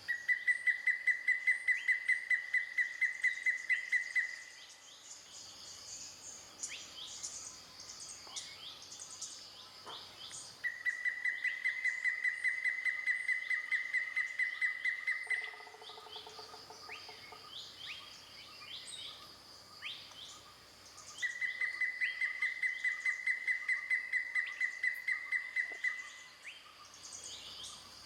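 Grey-headed woodpecker of the black-naped subspecies calling: three runs of rapid, evenly pitched notes at about four a second, each run lasting four to five seconds with pauses between. Insects buzz steadily and other small birds chirp in the background.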